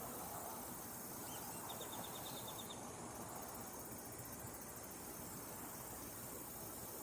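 Insects chirping over a steady outdoor hiss, with a short, rapid trill of pulses about two seconds in and a fine, very high pulsing a second later.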